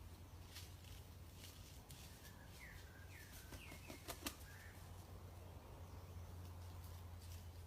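Near silence over a low steady hum, with a few faint short chirps falling in pitch from a bird about a third of the way in, then two sharp clicks close together a little past halfway.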